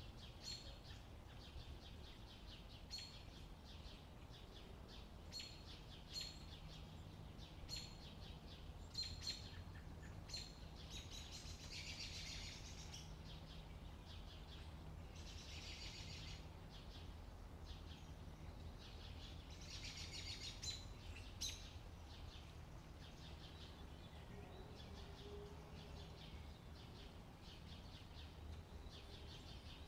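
Faint birdsong. Short high chirps repeat about once a second, with three longer warbling trills about twelve, sixteen and twenty seconds in, over a faint steady low hum.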